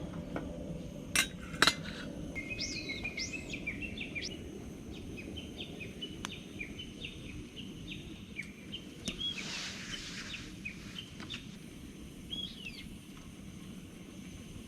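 Wild birds chirping and calling in short, repeated phrases over a steady low background hum of outdoor noise. Two sharp clinks come about a second in, and these are the loudest sounds.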